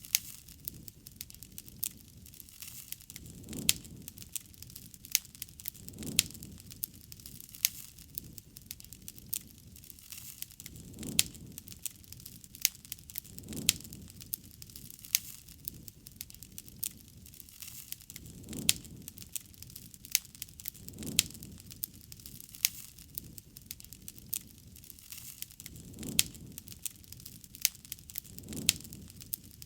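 Wood campfire crackling, with frequent sharp pops and snaps over soft low rumbles that swell and fade about every two and a half seconds.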